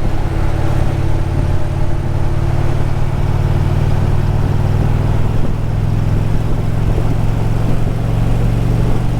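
Indian Challenger motorcycle's V-twin engine running steadily at highway cruising speed, with a steady rush of wind.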